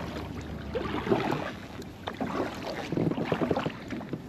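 Kayak paddle strokes splashing and sloshing in the water, coming in uneven surges, with wind rumbling on the microphone.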